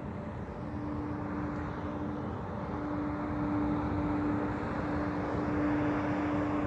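A steady engine drone with a constant hum, slowly growing louder.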